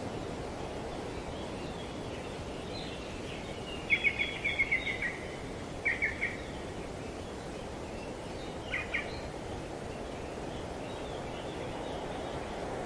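Steady rush of wind through tree foliage, with a bird calling in short, quick, repeated chirps: a run of about eight notes about four seconds in, three more about two seconds later, and a pair near the nine-second mark.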